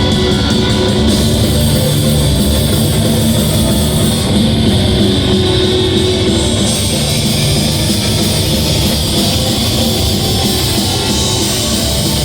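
A heavy metal band playing live at full volume: distorted electric guitars, bass and a pounding drum kit in a dense, steady wall of sound.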